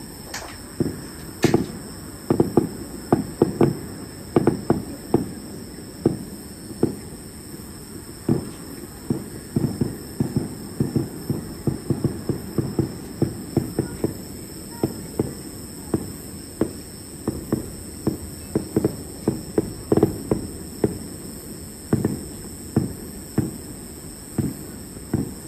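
Distant aerial fireworks shells bursting in a rapid, irregular series of short, dull booms, at times several a second.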